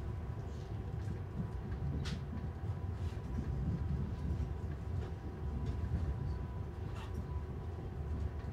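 Low, steady rumble of a passenger train running along the track, heard from inside the carriage, with a few faint clicks.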